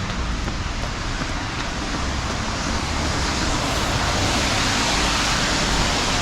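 Steady rushing noise of a city street in the rain, with traffic hiss from wet road and a deep rumble, growing a little louder in the second half.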